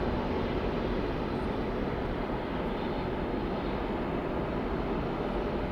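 Steady jet aircraft engine noise, an even, unchanging rush with no distinct events.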